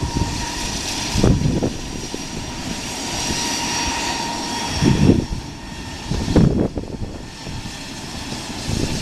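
Three-engine jet's turbine engines running at idle: a steady whine with a constant tone and thin high-pitched lines above it. Short low rushes break in about a second in and twice more after about five seconds.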